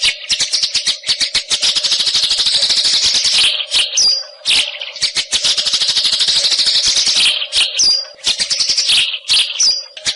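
White-rumped shama singing a fast rattling chatter of rapid high notes, broken by short pauses and a few brief high whistles, with a steady low hum underneath.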